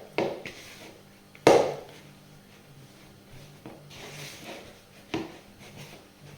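Pizza dough being kneaded by hand on a worktop: a few dull thumps as it is pressed and knocked down, the loudest about a second and a half in, with softer rubbing between.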